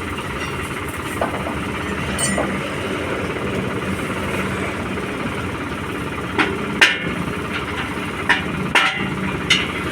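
Tractor engine idling steadily, with a few sharp knocks near the end.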